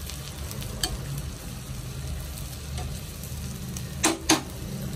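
Chicken pieces sizzling as they fry in a pan while being stirred with a metal spoon. About four seconds in come two sharp knocks, the spoon striking the pan.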